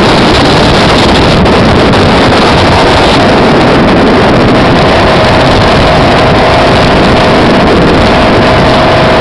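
Speedboat running fast and steady, its engine giving a constant whine over loud water rush, with wind buffeting the microphone.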